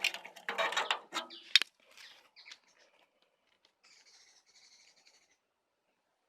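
A bird calling in loud, harsh notes during the first second and a half, cut by a few sharp cracks, the loudest about one and a half seconds in. Fainter high calls follow in the middle.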